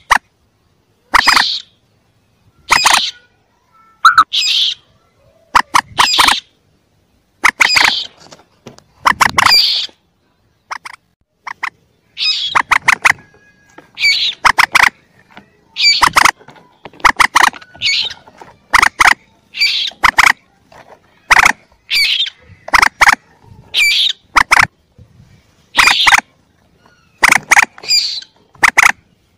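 Young common moorhens (mandar) calling: short, shrill squeaky calls repeated about every one to two seconds, some coming in quick runs of several notes.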